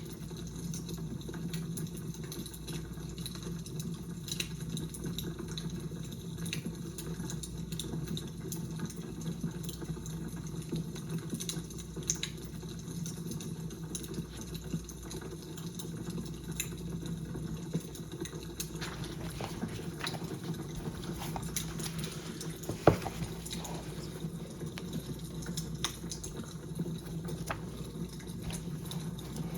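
Wood fire crackling steadily, with scattered small pops and snaps over a low rumble, and one sharper, louder pop about three-quarters of the way through.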